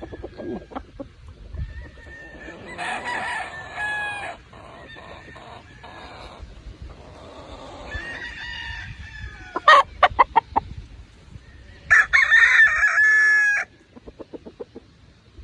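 Gamefowl roosters crowing, three crows in turn, the last the loudest and longest, with a run of short clucks about ten seconds in.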